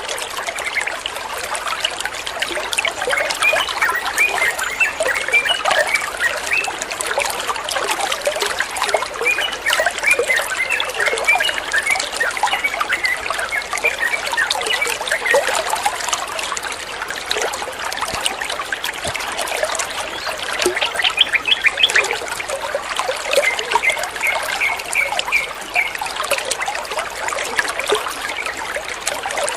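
Water trickling steadily, with yellow-vented bulbul chirps coming in short runs over it.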